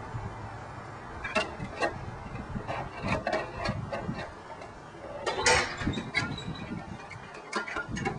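Hard plastic parts of a toy side-loader trash truck clicking and knocking as they are handled, with irregular ticks and a louder clatter about five and a half seconds in.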